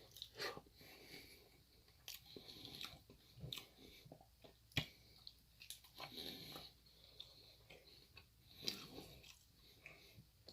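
Faint, close-up chewing and biting of a mouthful of curry and naan, with irregular soft mouth clicks and smacks.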